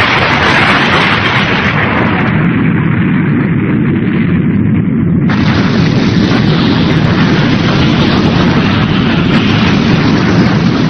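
Cartoon sound effect of a spaceship exploding: a long, loud, continuous blast rumble. A fresh, brighter blast cuts in about five seconds in.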